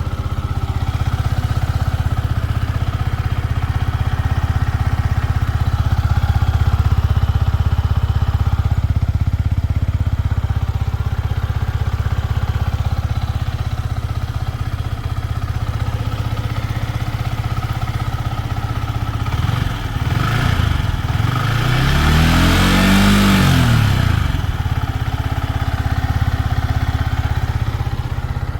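Yamaha MT-15's single-cylinder engine idling steadily. About two-thirds of the way through it is revved once: the pitch climbs and drops back to idle within a few seconds. The owner runs it so listeners can judge whether there is any abnormal engine noise.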